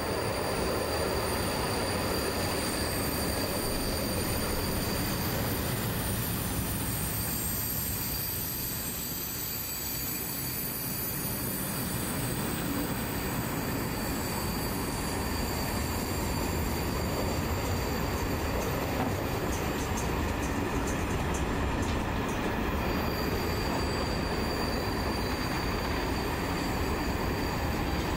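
Works train rolling past: GCF track-maintenance machine cars and then a string of ballast hopper wagons, a steady rumble of wheels on rail. A thin high steady squeal from the wheels on the curve drops away in the middle and returns near the end, with a patter of clicks about twenty seconds in.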